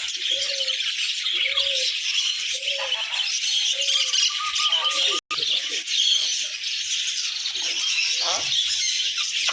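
A dense, constant chatter of many caged small birds chirping and squawking together, with a brief break a little past the middle.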